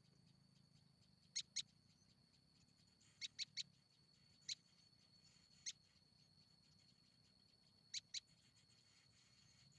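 Short, sharp chip calls of perenjak (prinia) at the nest, nine in all. They come as a pair, a quick triplet, two single chips and another pair near the end. A faint, steady high-pitched insect drone runs beneath them.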